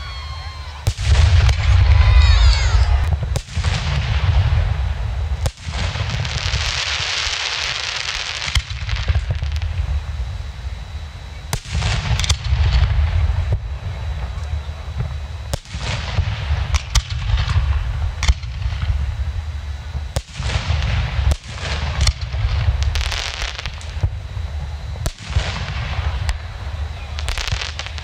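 Fireworks display: aerial shells launching and bursting in a rapid, irregular string of booms over a continuous low rumble, with a rising whistle about two seconds in and a long crackling stretch several seconds later.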